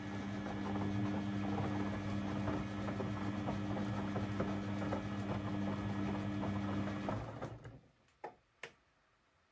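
Beko WMB 71643 PTE washing machine running with a steady hum, which cuts off about seven seconds in. Two short clicks follow a little over a second later.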